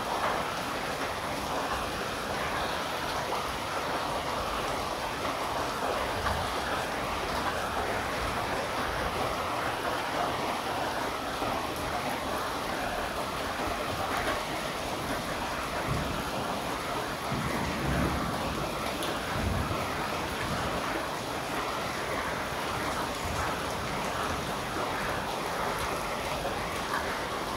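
Steady rain falling, an even hiss of drops with no pauses, and a few faint low rumbles a little past the middle.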